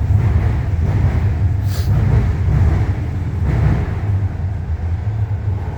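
Six-car Guangzhou Metro Line 5 linear-motor train pulling out of the station, heard from the platform as a low rumble that eases slightly near the end, with a short hiss about two seconds in. Its traction motor is so quiet it is barely heard, a "really weak motor".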